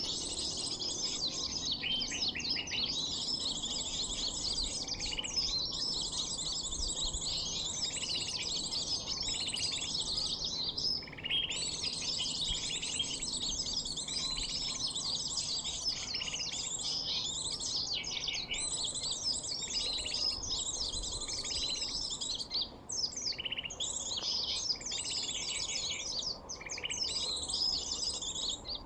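Sunbird lure call, an mp3 bird-call recording played to draw small birds in: dense, fast, high chirping and twittering in long runs with brief pauses, over a lower note that repeats about once a second.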